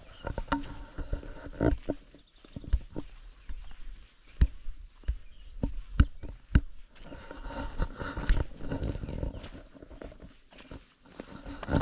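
Footsteps of a person walking: irregular thuds and rustling, with a few sharper knocks between about four and seven seconds in.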